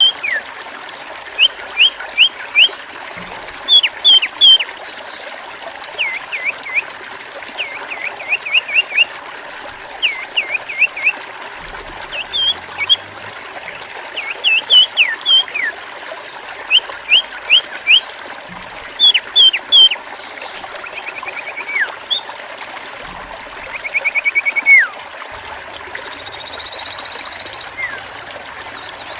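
A sirtu songbird singing in short bursts of three or four sharp chirps and quick falling whistles, with two brief buzzy trills past the middle. Under the song runs a steady trickle of splashing water.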